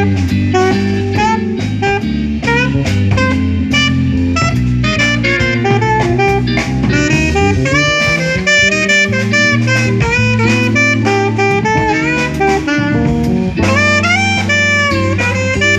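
Live instrumental jazz quintet playing: a saxophone carries the melody over walking bass, guitar and a drum kit with cymbals, with a trumpet in the band.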